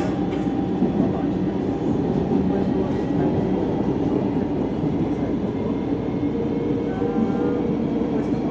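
CPTM Line 13 electric commuter train running, heard from inside the carriage: a steady low rumble of wheels on the rails.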